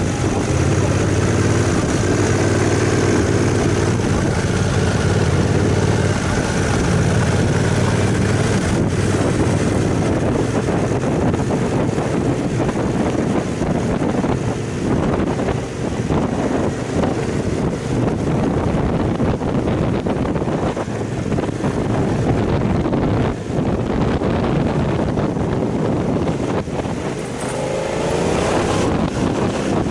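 Aprilia Caponord 1200's V-twin engine running at low road speed up a climb, heard from the bike with wind and road noise that covers the engine note after the first several seconds. Near the end the engine note rises as the bike speeds up.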